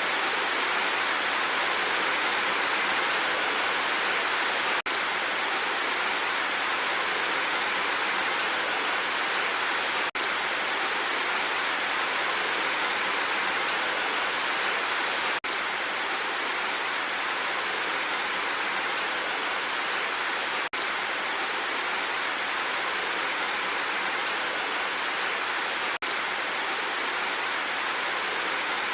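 Steady, dense hiss of heavy rain with no let-up, broken only by a very short dip about every five seconds.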